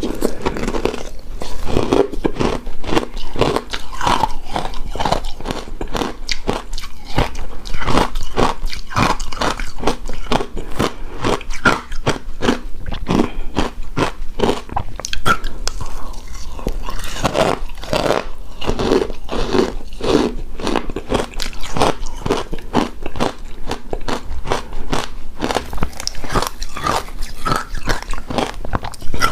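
Close-up chewing and crunching of shaved ice dessert: a steady, rapid run of crisp icy crunches with mouth sounds between bites.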